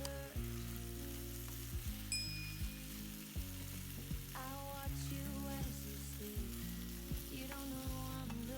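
Food frying in a pan with a steady sizzle, with short clicks of a utensil stirring or turning it, over background music with singing.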